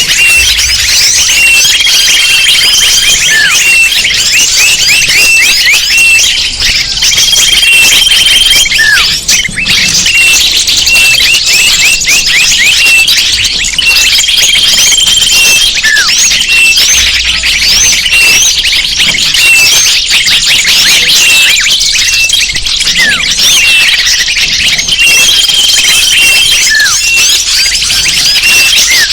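Bird-lure recording of a dense chorus of many small birds chirping and twittering continuously. A short, steady whistle and a brief falling call recur several times through it.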